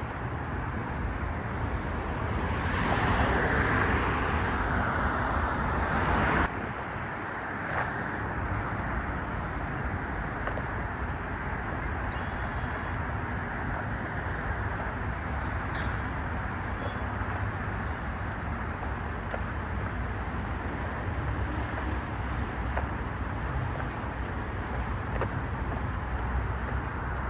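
Steady road traffic running past, with one louder swell a few seconds in that cuts off suddenly.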